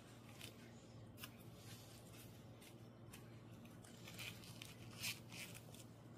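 Faint scattered scratching and light clicks of hands working with small craft pieces, a little louder about four and five seconds in, over a low room hum.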